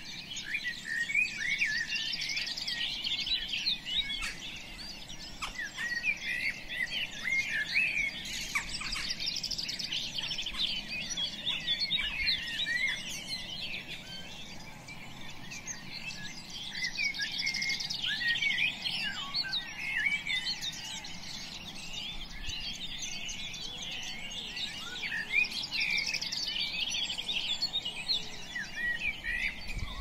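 Birds chirping and twittering in a dense, overlapping chorus of short high calls that swells and eases every few seconds.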